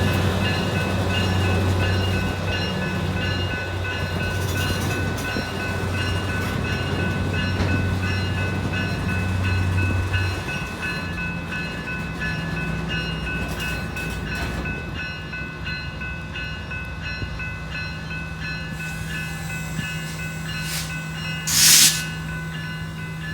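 Diesel genset switcher locomotive running while moving a string of grain cars, a steady low engine hum that shifts about halfway through, with steady high-pitched tones over it. A brief loud burst of noise near the end.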